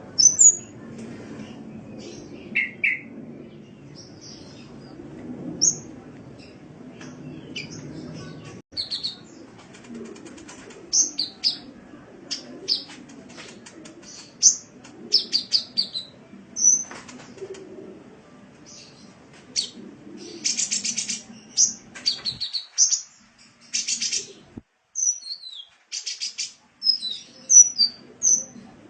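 Sunbird song: rapid, high-pitched chirps, short down-slurred notes and a few buzzy trills, over a low background hum that stops about three-quarters of the way through.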